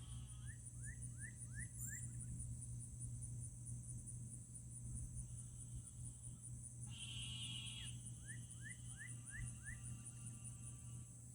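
Frogs calling against a steady, pulsing, high-pitched insect chorus. Twice, a call of stacked buzzy tones is followed by a run of about five quick rising notes, over a low steady hum.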